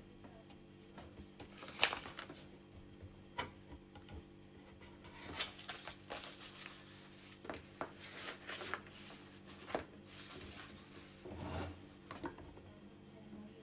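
Scattered plastic clicks, knocks and rustling scrapes as parts of a new Delta coffee machine are handled and pushed together, a part that will not go in or lock.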